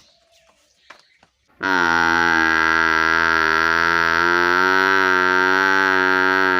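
A bovine mooing: after a short quiet, one long, steady, deep call starts about a second and a half in and is still going at the end.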